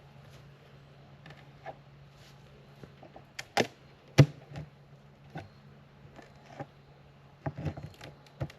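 Wooden beehive parts being handled and pried open: scattered sharp knocks and clicks, the loudest a single knock about four seconds in, over a steady low hum.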